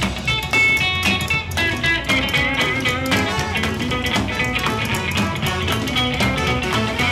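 Live swing band playing with a steady beat, recorded up close to the band rather than through the speakers.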